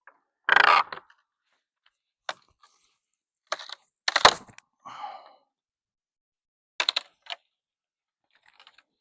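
Old wooden corral boards being pried and knocked loose: a series of sharp cracks and knocks with a short rasp about five seconds in, the wood splitting as it comes apart.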